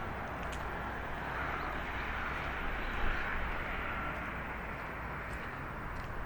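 Steady outdoor background hush with a low rumble, and a few faint, short bird chirps.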